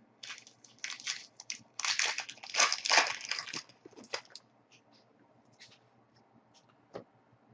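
Foil trading-card pack wrapper crinkling as it is torn open and handled for about four seconds, followed by a few light clicks and rustles as the cards are handled.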